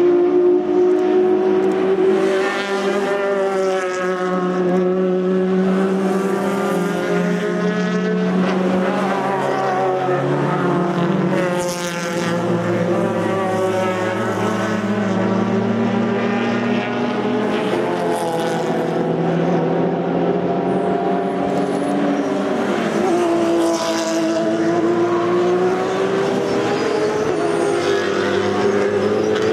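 Race cars with open exhausts passing one after another at speed, engines revving hard and shifting, several often heard at once as their pitch rises and falls.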